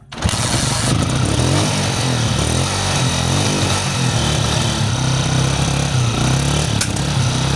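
Honda CG125's single-cylinder four-stroke engine running while the motorcycle is ridden, a steady, slightly wavering note with rushing road and wind noise; the bike is one the owner says misses and cannot pick up speed.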